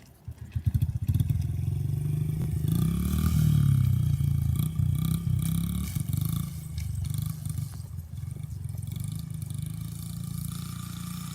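Small 50 cc dirt bike engine revving up as the rider accelerates, loudest about three to four seconds in, then running on steadily and a little quieter.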